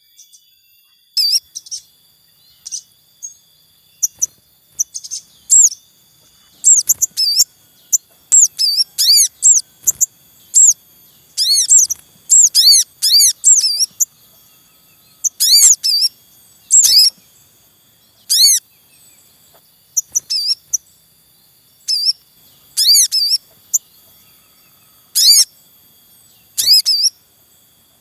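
Wild sogon birds calling with a brood: many short, high chirps that slur downward, given singly and in quick runs of two to five. They come every second or so and are loud against a quiet background.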